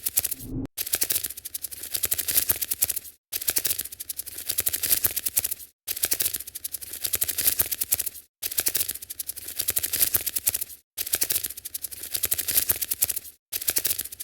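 Looped sound effect of rapid scratchy clicking, like tiny feet skittering, in stretches of about two and a half seconds, each cut off by a brief silence before it starts again.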